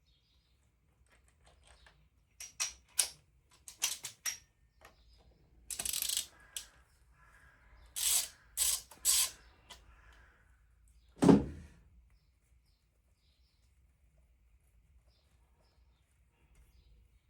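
Metal hand tools clicking, tapping and scraping against engine parts in a string of short sounds, then one heavier knock about two-thirds of the way through.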